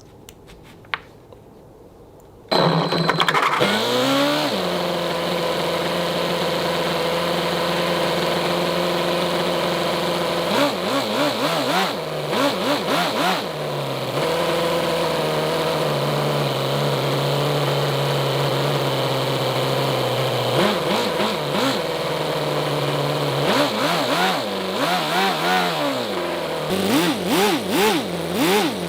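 Toyan FS-L400 four-cylinder nitro model engine starting on the first crank about two and a half seconds in. Its pitch sweeps up and settles, then it runs steadily, and several throttle blips near the end rev it up and back down.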